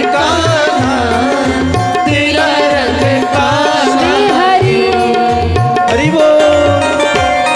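Devotional bhajan music: a tabla beat under held notes and a wavering melodic line, played between the sung verses.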